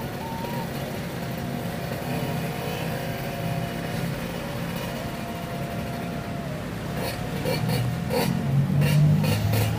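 Motorcycle engine running steadily while riding, picking up and growing louder near the end, with a few sharp clicks in the last few seconds.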